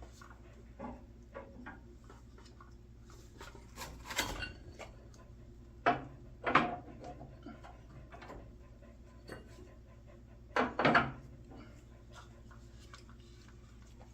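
Wood knocking and clattering at a wood stove as kindling is worked in to start the fire: a few louder knocks, around four, six and eleven seconds in, over scattered faint ticks.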